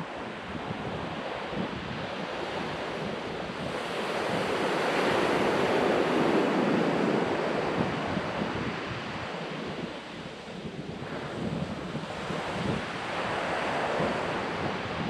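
Ocean surf washing onto a sandy beach, with one wave swelling loudly and breaking from about four seconds in and a smaller swell near the end. Wind gusts on the microphone.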